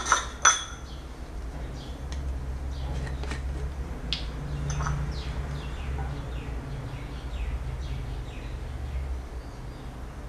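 Two sharp clinks at the very start, then faint, repeated short falling bird chirps in the background over a steady low hum.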